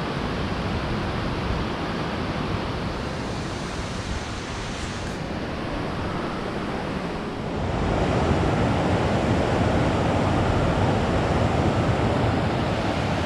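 Water pouring down a multi-tiered waterfall: a steady rush of falling water that grows louder about seven and a half seconds in.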